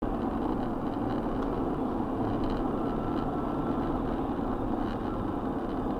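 Steady engine and road noise heard from inside a moving vehicle, starting abruptly at a cut.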